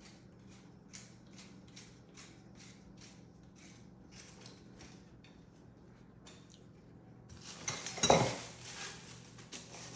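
Pieces of a bird feeder station kit being fitted together: faint, regular soft ticking at first, then about seven seconds in a loud clatter and scrape of hard parts knocking against each other.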